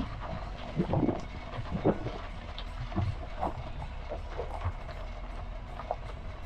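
Tata Nexon driving off-road over a rough track: a low rumble with irregular knocks and thuds as it jolts over bumps, loudest about one and two seconds in.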